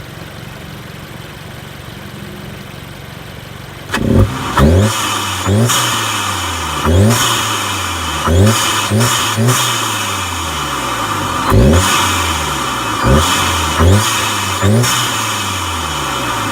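Audi S3's turbocharged four-cylinder engine with an aFe Pro 5R open-element cold air intake, idling, then from about four seconds in blipped about ten times. Each blip is a quick rev-up that falls back toward idle, with loud intake rush.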